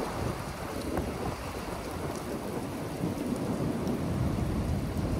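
Heavy thunderstorm rain pouring down as the storm hits: a steady rush of noise that grows slightly louder toward the end.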